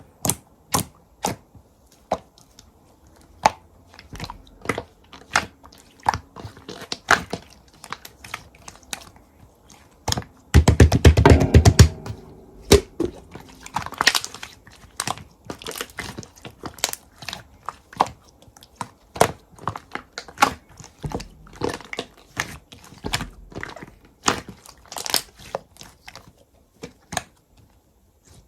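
Slime being squeezed and pressed by hand, giving a string of sharp, wet clicks and pops, with a loud run of rapid popping a little over ten seconds in.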